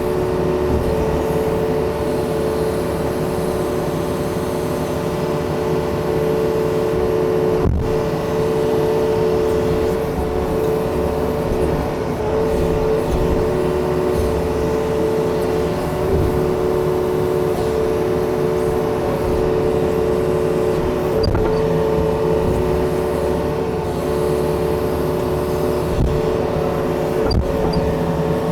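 Yanmar excavator's diesel engine running steadily under work, with a constant whine. A couple of brief knocks, one about eight seconds in and one near the end.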